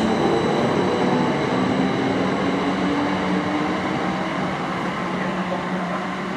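Electric multiple-unit passenger train running through, a steady rush of wheels on rail and motor noise with a few humming tones, slowly fading as it moves away.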